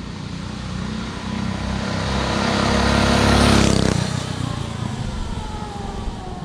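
Mini bike engine passing by: its running sound grows louder to a peak about three and a half seconds in, then drops in pitch and fades as it moves away.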